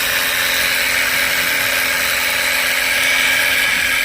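Battery-powered electric sprayer pump running steadily with a steady whine, as its tank of water and chemical runs nearly empty.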